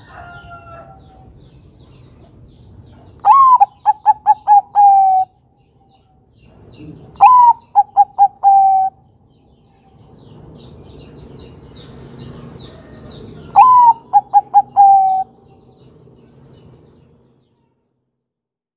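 Bangkok-type zebra dove (perkutut) cooing its song three times. Each phrase opens on a rising note, runs into a quick string of short clipped notes and ends on a longer held note.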